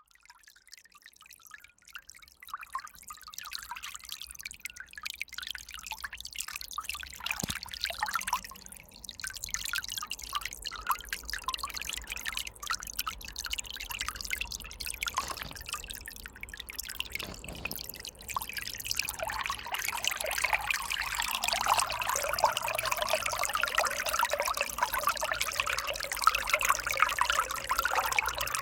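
River water trickling, with many small separate splashes. It fades in over the first couple of seconds and grows fuller and louder about two-thirds of the way through.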